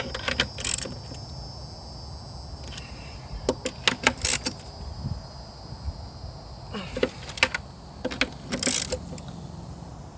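Hand wrench working the nuts on a jet ski pump's mounting studs, in short runs of metallic clicks and clinks as the nuts are tightened evenly by hand rather than torqued.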